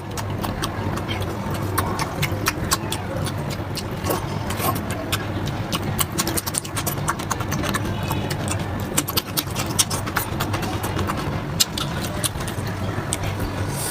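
Close-miked chewing and wet mouth smacking of someone eating mutton fat curry with rice: a dense run of irregular sharp smacks and clicks over a steady low hum.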